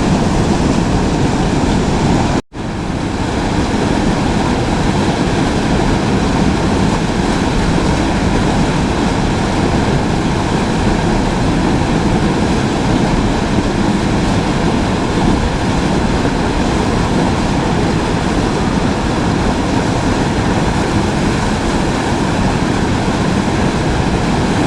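Steady rushing of river water, loud and even with no breaks in its texture. It cuts out for a split second about two and a half seconds in, then carries on unchanged.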